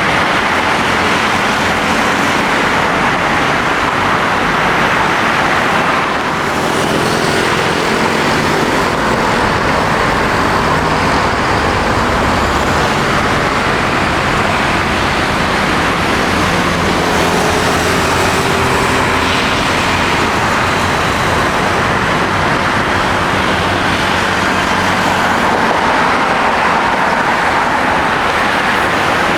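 Jet engines of an Airbus A320-200 running, a loud, steady noise that holds an even level throughout.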